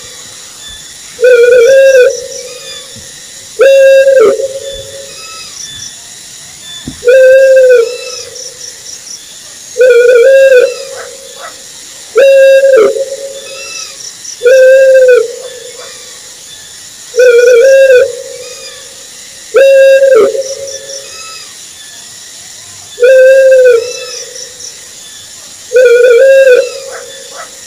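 An owl hooting: a hollow, arching hoot about a second long that rises and falls in pitch, repeated evenly about every two and a half seconds, around a dozen times.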